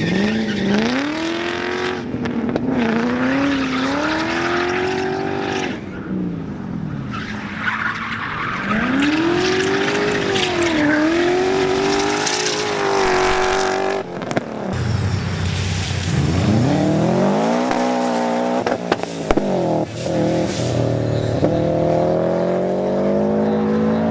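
Competition car engine revving hard and easing off again and again as it is driven through a slalom course, its pitch climbing and dropping several times, with tyres squealing. The sound breaks off abruptly about 14 seconds in and the same kind of revving carries on.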